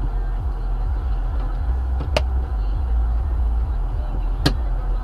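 Moving car's steady low rumble of road and engine noise, with two sharp clicks, the second a little over two seconds after the first.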